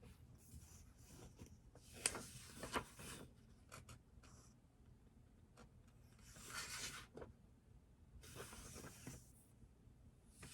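Faint scratching of a pen writing on paper, in three separate runs of strokes with a few small clicks between them.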